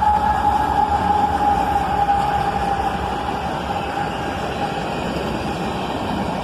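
Passing freight train: a low rumble under a single steady high tone that slowly drops in pitch and fades out a few seconds in.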